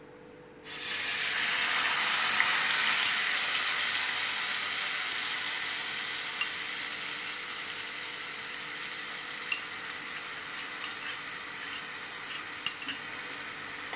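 Red chilli paste mixed with curd poured into hot oil in an aluminium kadai: a sudden loud sizzle starts about a second in, then slowly dies down, with a few faint ticks near the end.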